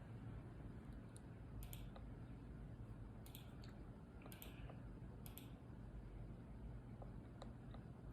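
Faint scattered small clicks and taps, a few at a time, over a low steady hum.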